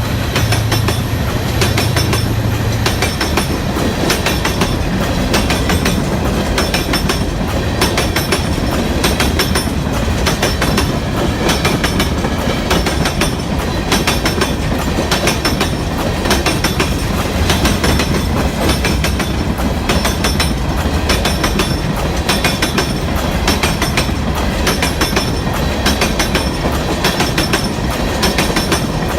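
A train passing loudly, its wheels clicking in a steady rhythm over the rail joints as the cars roll by, with a low rumble in the first few seconds.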